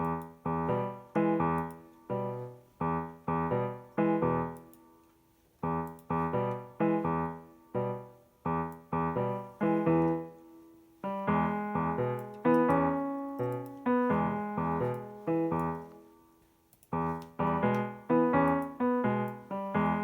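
Background piano music: a gentle melody of struck chords, each note fading, with short pauses between phrases.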